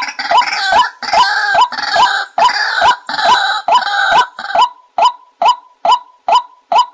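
White-breasted waterhen calling: a steady series of loud "kook" notes, about two a second. A rougher, harsher run of calls overlaps them for the first two-thirds and then drops away, leaving the clean notes alone.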